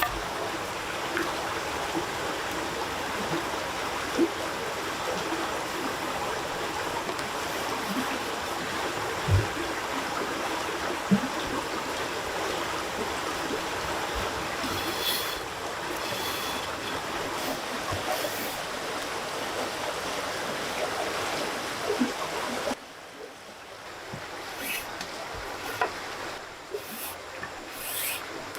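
Steady rush of running water with a few scattered knocks, dropping suddenly to a quieter background about 23 seconds in.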